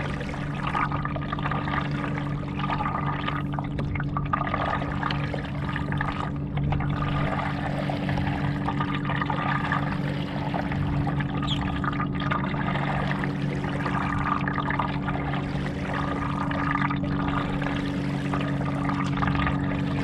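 Water trickling and splashing around a paddleboard as it is paddled, rising and falling unevenly, over a steady low hum.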